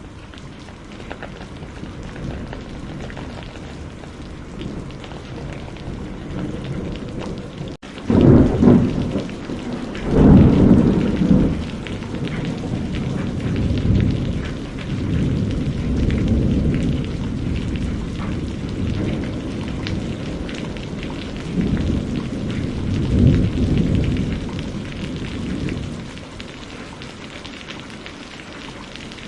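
Steady rainfall with rolling thunder. Loud low rumbles come about eight and ten seconds in, weaker ones follow, and another strong roll comes past the twenty-second mark before it settles back to rain alone.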